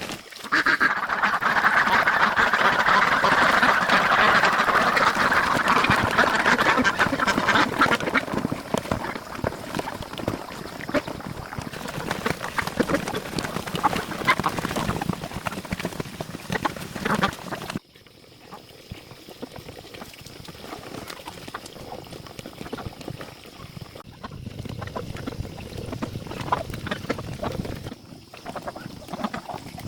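A flock of ducks quacking, dense and loud for the first several seconds. The sound cuts off suddenly about two-thirds of the way in, and fainter, patchier calling follows.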